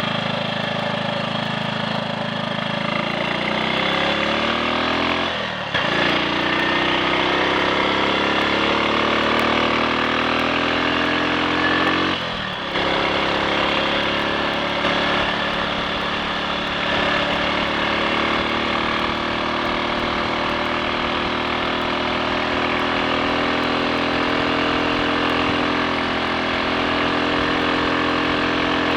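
A Triumph Sports Cub's single-cylinder engine pulling under load and rising in pitch, with two brief gear changes, about six and twelve seconds in. After the second it runs steadily at cruising speed. It runs cleanly, with the earlier misfiring and cutting out cured.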